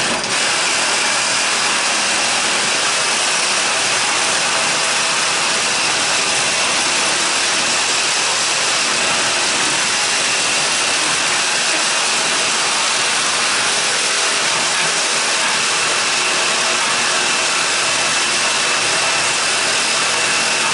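Power tool running steadily and loudly, cutting through the metal of an air-conditioner condenser unit; it starts abruptly and cuts off suddenly at the end.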